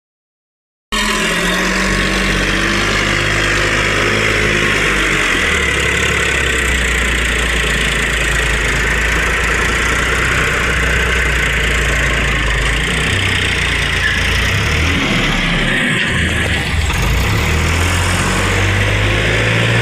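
Powertrac Euro tractor's diesel engine running steadily, its low note shifting up and down a few times as the engine speed changes.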